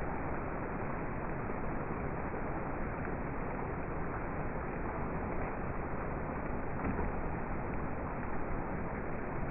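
Rain falling, a steady even hiss with no distinct drops standing out.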